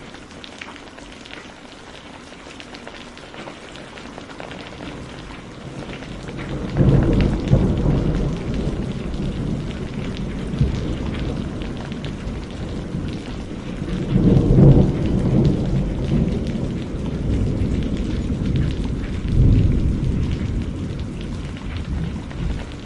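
Campfire crackling with small snaps, then about six seconds in a loud, deep rumble sets in, swelling and easing three times and drowning out the fire.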